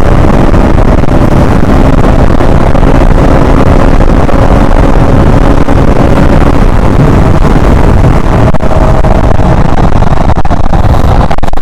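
KTM Duke 160's single-cylinder four-stroke engine running under way, with a steady engine note, under heavy wind rumble on the microphone. The engine note shifts about six seconds in.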